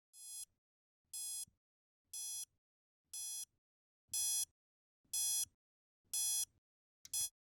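Digital alarm clock beeping: a short, high electronic beep about once a second, seven times, the last four louder, then cut off by a brief clipped double beep near the end.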